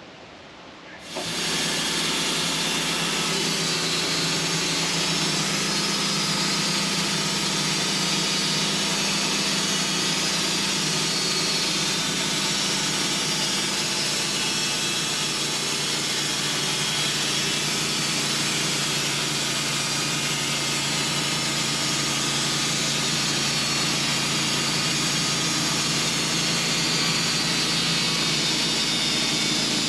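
Portable band sawmill running, its engine held at speed while the band blade cuts through a fresh hemlock log. The noise comes in suddenly about a second in and then stays steady.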